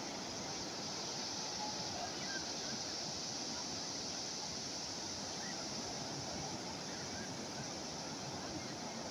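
Calm sea waves washing steadily, an even hiss of surf with no distinct breakers.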